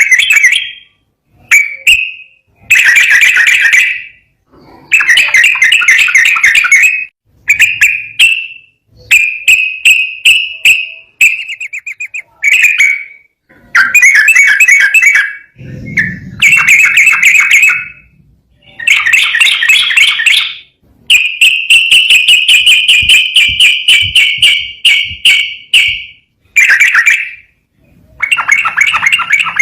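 Yellow-vented bulbul (trucukan) singing loudly in a long string of rapid, chattering trilled phrases, one after another with short pauses. There is a brief low thump about sixteen seconds in.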